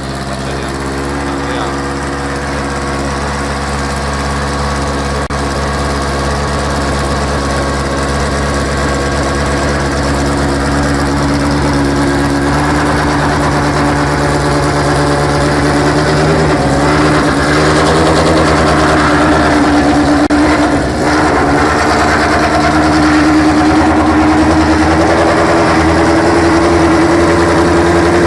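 Life F1 car's W12 racing engine running near idle, with its pitch creeping slowly up. The revs dip briefly about two-thirds of the way through, and it gets a little louder near the end.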